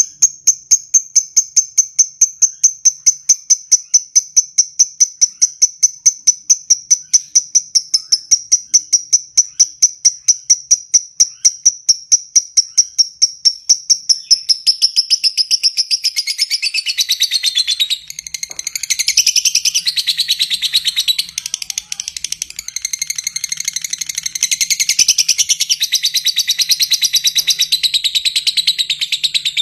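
Lovebird 'ngetik': a fast, evenly spaced run of high, sharp ticking chirps, about four a second, that turns about halfway into a denser, more varied chattering song.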